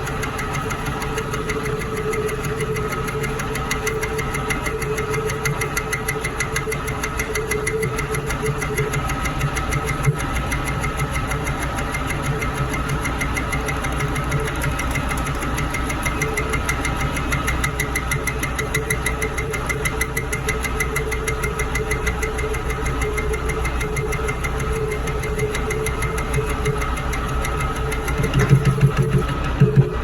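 Metal lathe running steadily with a rapid, even pulsing, turning a car clutch operator part; it grows briefly louder and deeper about two seconds before the end.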